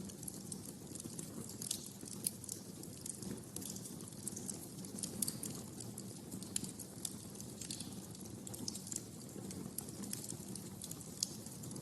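Wood fire crackling in a fireplace: irregular sharp pops and snaps, several a second, over a low steady rush of the flames.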